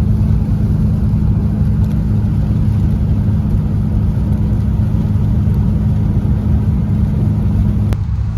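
A car driving along at speed: steady low engine and road rumble with a constant hum, which cuts off abruptly near the end.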